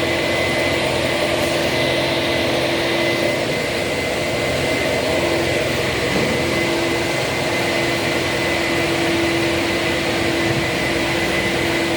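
A machine running steadily: a constant loud hiss with a steady high whine and a lower hum, unchanging throughout.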